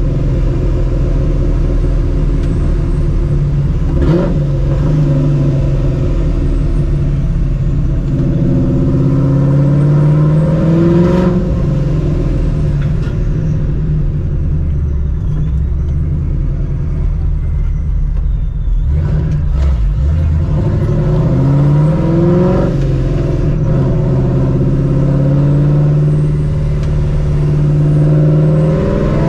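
Supercharged Ford 4.6-litre 2V V8 running through open exhaust cutouts ahead of the mufflers, heard from inside the car while driving. The engine note rises and falls as the car accelerates several times.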